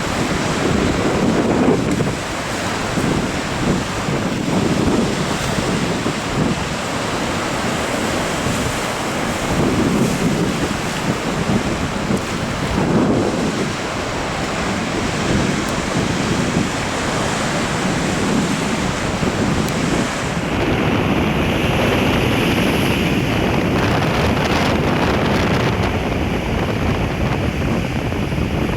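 Ocean surf breaking and washing, in repeated swells, with wind buffeting the microphone. About two-thirds of the way through, the sound changes and the highest hiss drops away.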